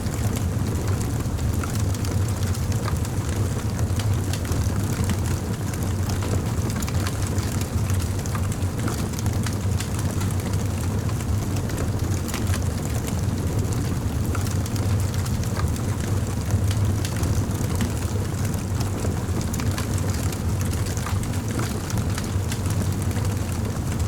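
Campfire burning, with a steady low rumble under many small crackles and pops.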